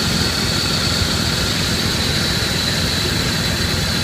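1999 Dodge Ram 1500's Magnum 5.2-litre V8 idling steadily, with a steady high whine above the engine note.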